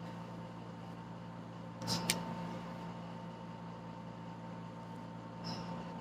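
Steady low mechanical hum, with a faint higher tone above it, from a motor or appliance running. A brief click comes about two seconds in, and a softer one near the end.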